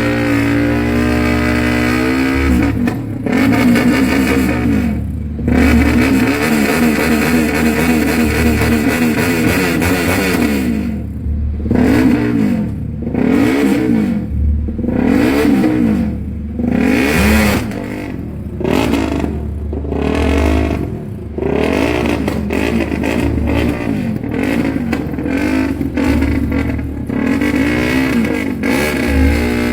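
A freshly rebuilt KTM 350cc single-cylinder motorcycle engine running its break-in. It runs steadily, then is revved up and let back down again and again, about once a second, through the middle of the stretch before settling back to a steady run.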